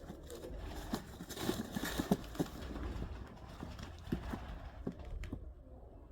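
Irregular light knocks and scuffles, with a short rustling flutter about one and a half seconds in.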